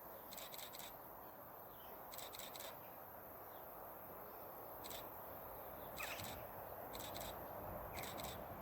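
Faint outdoor ambience with a few brief, high bird chirps scattered through it.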